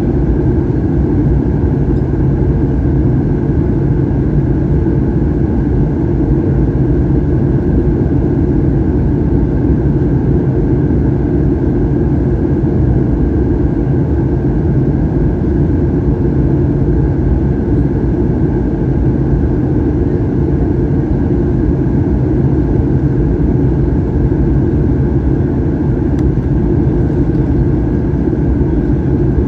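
Steady cabin noise inside a Boeing 737-800 in flight: the drone of its CFM56 turbofan engines and the rush of air past the fuselage, with a few steady hums running through it.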